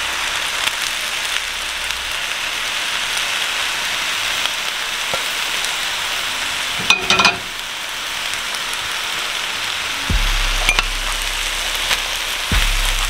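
Chicken fried rice sizzling steadily in a hot wok with freshly scrambled eggs on top. A brief metal clink about seven seconds in, and near the end the spatula knocks and scrapes against the wok as it is stirred.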